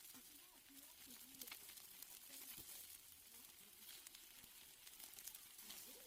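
Very faint crackling and sizzling of steaks grilling over a fire, with scattered soft pops.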